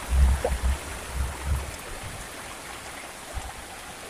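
Heavy rain falling steadily as an even hiss, with a few low thumps in the first second and a half and one more near the end.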